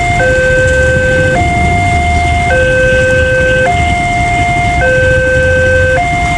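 Railway level-crossing warning alarm sounding a two-tone hi-lo signal, the higher and lower tones swapping about every 1.2 seconds, warning that a train is approaching. A steady low rumble runs underneath.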